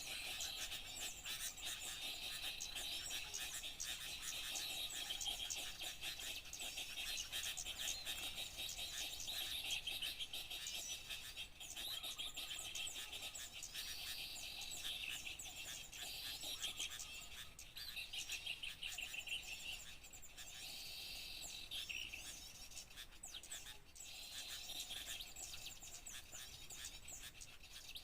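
Bird-lure recording of a busy chorus of small songbirds, many short high chirps and twitters overlapping without a break.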